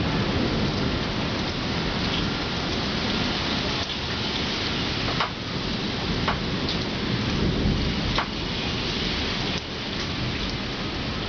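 Heavy rain falling steadily in a thunderstorm, with a low rumble underneath. A few sharp taps of drops hitting something close by stand out partway through.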